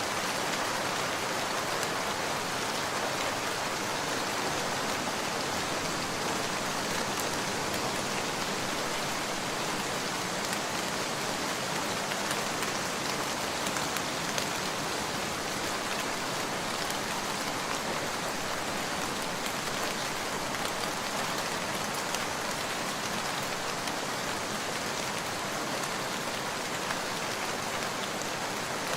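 Steady rain: an even hiss of falling rain, with faint scattered clicks.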